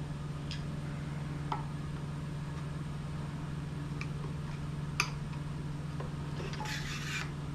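Light clicks and taps of small metal parts being handled during lower-unit water pump assembly, one sharper click about five seconds in and a short rustle near the end, over a steady low hum.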